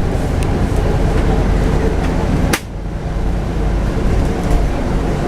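Scania N250UD double-decker bus running, a steady low engine and road rumble. A sharp click about two and a half seconds in is followed by a brief dip in the sound.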